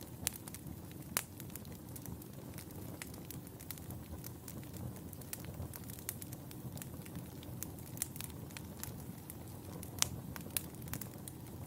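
Wood fire in a fireplace burning with a steady low rumble and frequent crackles, with a few louder pops about a second in and again near the end.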